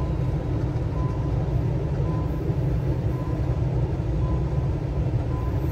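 Freight train of covered boxcar wagons running past close by: a loud, steady low rumble of steel wheels on the rails.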